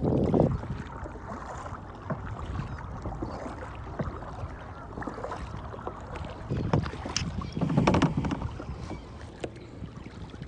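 Kayak paddle strokes dipping and splashing in river water, with wind rumbling on the microphone. The splashing is louder at the start and again about seven to eight seconds in.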